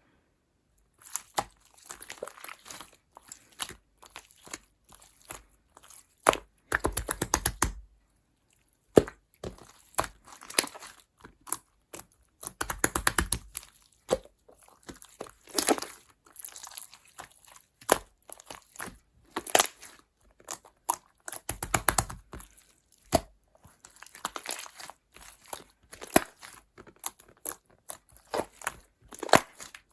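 Irregular crackling, crunching and crinkling handling noises in short bursts, with denser runs of rapid crackles about seven, thirteen and twenty-two seconds in.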